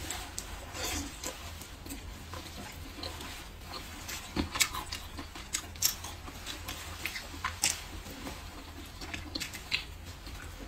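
Close-miked chewing and mouth sounds of someone eating braised pork ribs: irregular wet clicks and smacks, a few sharper ones standing out.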